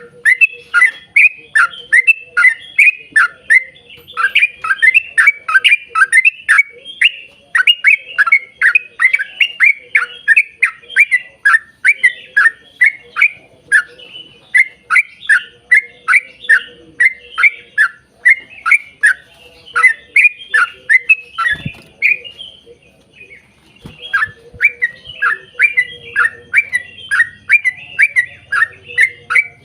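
Yellow-vented bulbul (trucuk) singing a long, fast run of short falling chirps, about three or four a second, broken by a pause of about two seconds past the middle.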